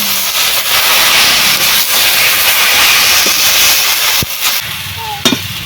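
Vegetables sizzling in hot mustard oil in a wok, a steady loud hiss that drops off about four and a half seconds in.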